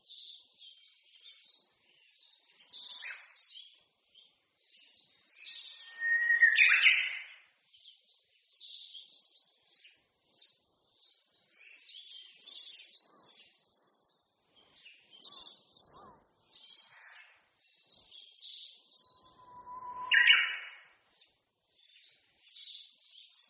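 Songbirds singing in a forest: a steady background of short, high twittering chirps, with a louder song twice, about six seconds in and near the end, each a held whistled note breaking into a quick higher phrase.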